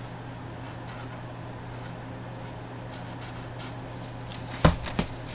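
Hands handling items on a tabletop: faint rustling and scraping, then two sharp knocks close together near the end, over a steady low hum.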